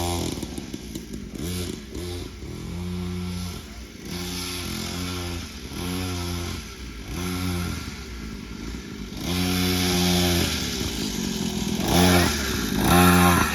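Small 50cc dirt bike engine revving in short bursts as the throttle is opened and let off again, about once a second, and louder over the last few seconds.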